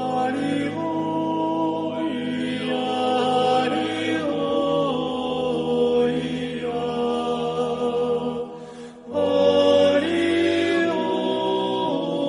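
Choir singing an Orthodox liturgical chant in slow, sustained chords over a low held bass, with a short pause for breath about nine seconds in.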